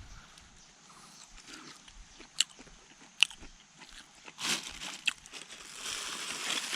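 A person eating, chewing and crunching food, with a few sharp crunches and a rustle toward the end.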